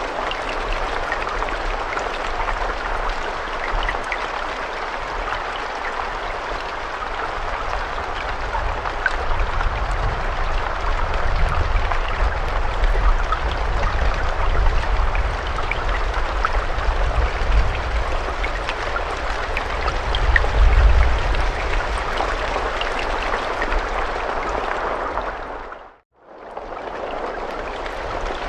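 Steady rain, a dense hiss of falling water with scattered drop ticks and a low rumble underneath that swells about twenty seconds in. About 26 seconds in, the sound fades out to silence and fades back in within a second or so, the seam of a looped recording.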